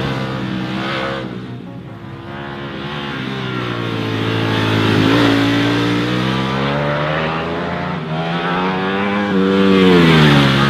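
Ducati Panigale V4's V4 engine revving, its pitch falling, climbing and falling again several times, loudest near the end as it rises to a peak then drops away.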